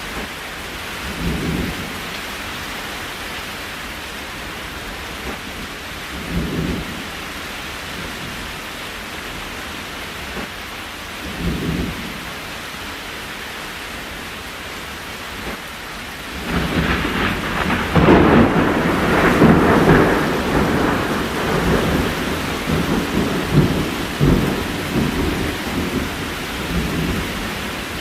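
Steady rain hiss with a thunderstorm: soft low rumbles every few seconds, then about halfway a loud roll of thunder builds up and rumbles on unevenly to the end.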